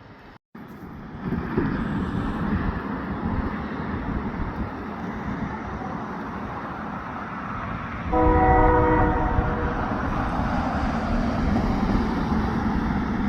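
Diesel locomotives of a departing train running with a steady low rumble. About eight seconds in, the locomotive horn sounds one chord for a second or so.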